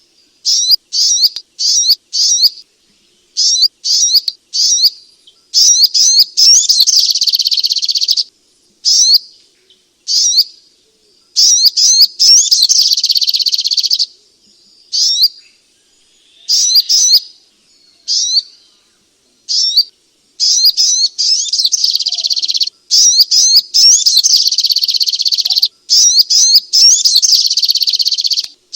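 Spiderhunter (sogok ontong) calling: quick series of sharp, high chirps in bursts with short gaps, some stretches running together into dense, continuous chattering.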